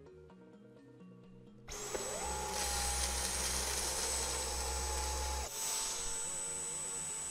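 Cordless stick vacuum switched on about two seconds in: the motor spins up with a whine that rises and then holds steady over a loud rush of air. A low hum under it drops out about two-thirds of the way through.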